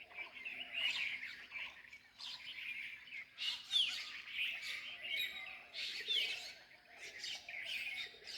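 A flock of sparrows chirping in a dense, overlapping chorus of short, high chirps that come in irregular clusters. A faint steady low hum runs underneath.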